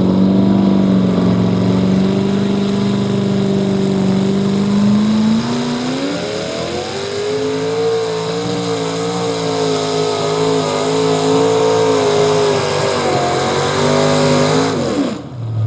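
Modified pulling tractor's engine at full throttle, dragging a weight sled down the track. Its pitch climbs about six seconds in and holds high, then falls away and drops out near the end as the pull finishes.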